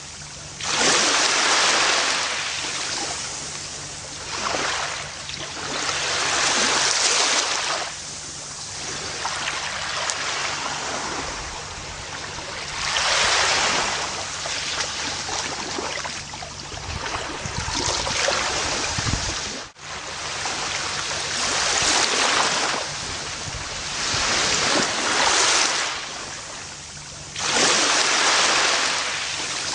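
Ocean waves breaking on a beach. Each swells up and washes back every few seconds, with a brief drop-out about two-thirds of the way through.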